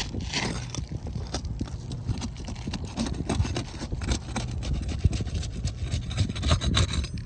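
Steel flat bar knocking and scraping against old asphalt roof shingles as they are pried up to reach the nails: a quick, irregular run of clicks and knocks over a steady low rumble.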